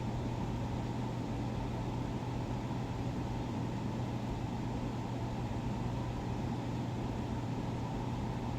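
Steady low machine hum over a constant low rushing noise, with no changes or distinct events.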